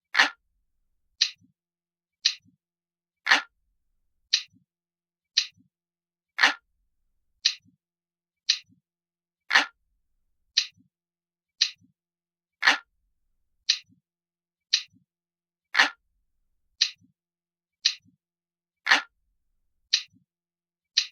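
Clock ticking sound effect, about one tick a second, with every third tick deeper and a little louder.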